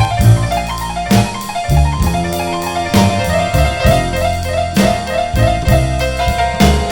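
Instrumental break on a rockabilly blues record: a piano solo of fast repeated treble notes over a steady bass line and a drum kit.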